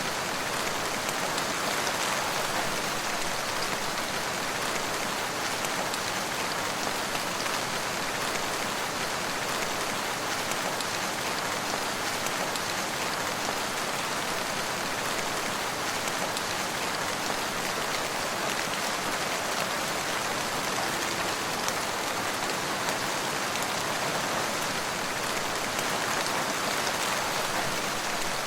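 Steady rain falling and pattering on surfaces, an even hiss of drops without a break.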